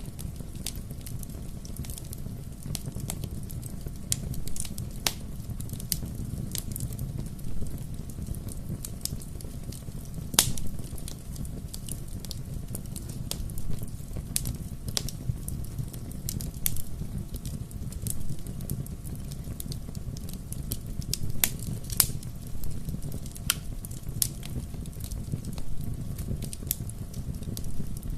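Wood fire burning with a steady low rumble and frequent irregular crackles and pops, a few sharper snaps standing out.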